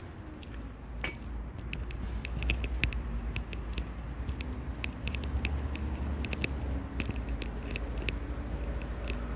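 Walking noise: a steady low rumble with many light, irregular ticks.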